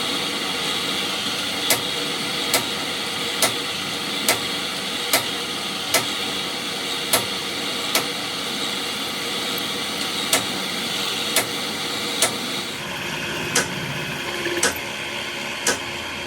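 Repeated sharp hammer blows, about one a second, over a steady hum of machinery noise.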